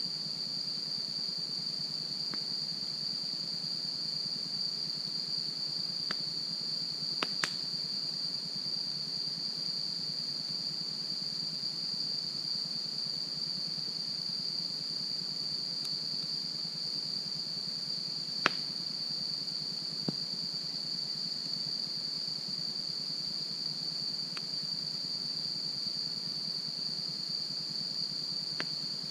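Campfire with a few sharp wood pops scattered through, the loudest about two-thirds of the way in, over a steady high-pitched chorus of insects, most likely crickets.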